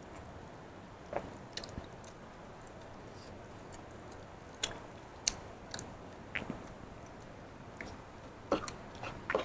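A person chewing food close to a clip-on microphone, with a scattering of short mouth clicks and smacks.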